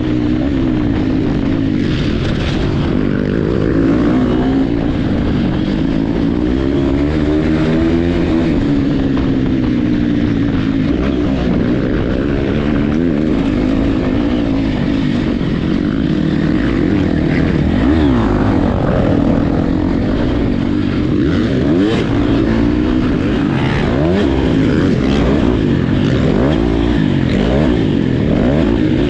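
Several motocross dirt bike engines revving up and down through the gears, their pitches rising and falling and crossing over one another.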